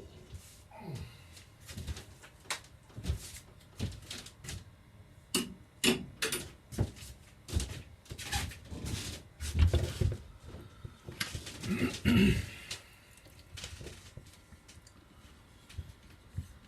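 Irregular clicks, knocks and clatter of tools and small parts being handled on a workbench, with two heavier thumps about ten and twelve seconds in.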